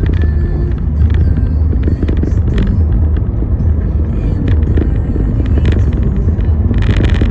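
Steady low road rumble of a car on the move, with scattered light clicks and a short burst of hiss near the end.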